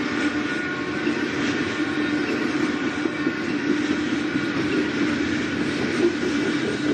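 A train passing on the rails, a steady unbroken running noise of wheels and cars.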